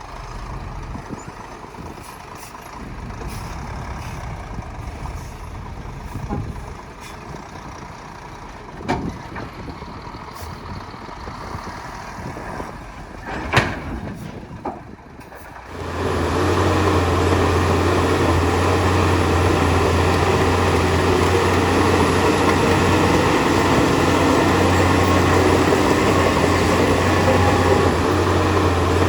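Heavy diesel earthmoving machinery working, from the dump trucks and bulldozers on the site. A few sharp sounds come about 9 and 13½ seconds in. About 16 seconds in, the sound jumps to a much louder, steady, deep engine drone.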